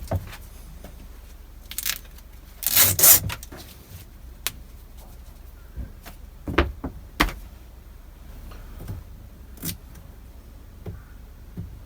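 Tape being peeled off a boat steering cable: short ripping sounds about two and three seconds in, then scattered light clicks and knocks as the cable is handled.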